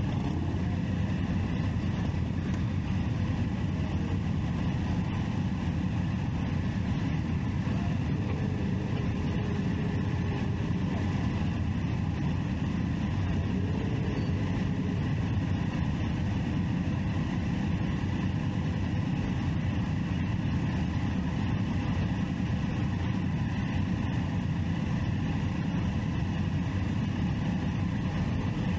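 Triumph Street Triple 675's inline-three engine running steadily under a dense low rumble of motorcycle and road noise.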